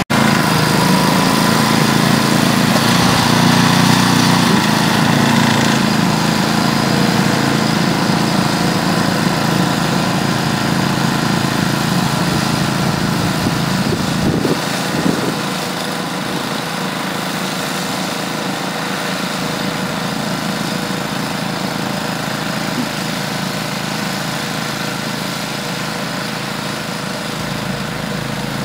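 Gas snowblower engine running steadily while clearing deep snow. It is a little louder over the first few seconds and drops slightly in level about halfway through.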